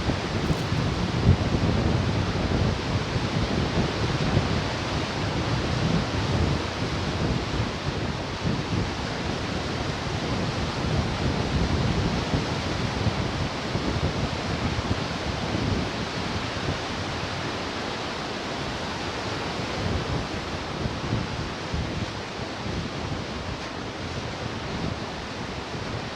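Ocean surf washing steadily onto the shore, an even rush of water, with wind buffeting the microphone in low rumbles, strongest in the first few seconds.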